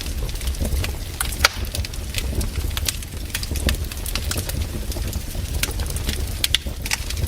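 Wood fire crackling: irregular pops and snaps over a steady low rumble, with one louder snap about one and a half seconds in.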